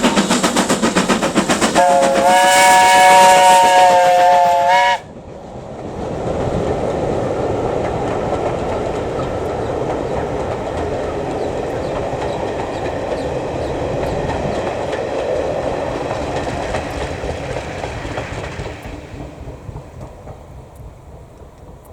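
Steam train running with a rapid even beat, then its chime whistle sounding a chord of several notes for about three seconds. The sound cuts off abruptly, giving way to a steady rumble of the train rolling by that fades away near the end.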